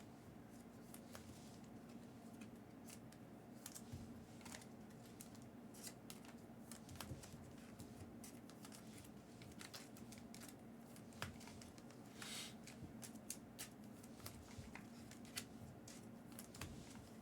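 Faint, scattered light clicks and rustles of trading cards and plastic card holders being handled and sorted, over a steady low room hum. There is a short brushing rustle about twelve seconds in.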